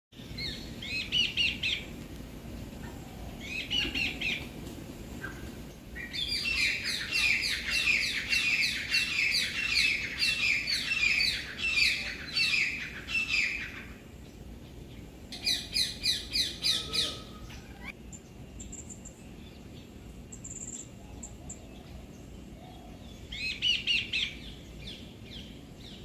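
Small birds chirping in bouts of quick, repeated downward-sliding notes. The longest run lasts about eight seconds, with shorter bursts and quieter gaps between.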